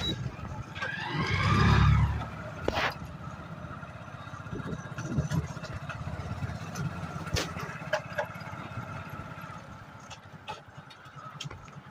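Hero Glamour 125cc motorcycle's single-cylinder engine running on the move, heard from a phone in a shirt pocket. About a second in there is a louder swell of engine sound that glides up and down in pitch, and a few sharp knocks follow later.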